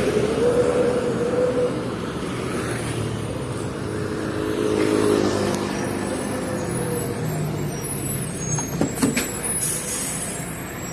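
Hino FL 260 JT truck's diesel engine running on the move, hauling a heavy coal load, with a pitched engine note that swells briefly about halfway. A few sharp clicks come near the end.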